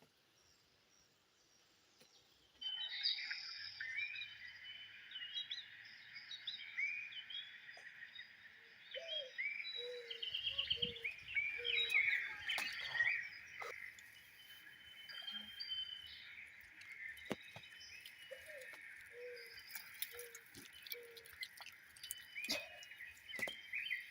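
Outdoor ambience of many birds chirping and calling over a steady high-pitched drone, starting abruptly a few seconds in. Twice a lower call of four or five short notes repeats, and scattered sharp clicks come through.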